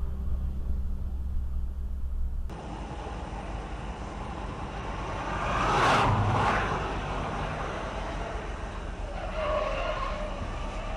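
Road and engine noise from cars in traffic as picked up by a dashcam, with a cut between two recordings about two and a half seconds in. A vehicle passes close by, swelling up and fading away around the middle.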